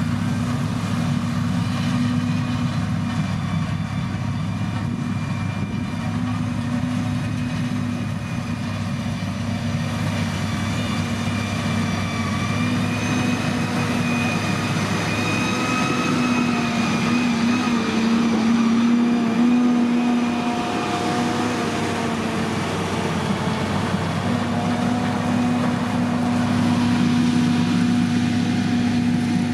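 Heavy construction machine's engine running steadily, its pitch rising and wavering for a few seconds around the middle before settling back.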